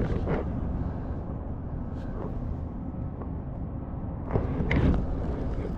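Steady low rumble of wind on the microphone on an open kayak, with a brief louder burst of noise about four and a half seconds in.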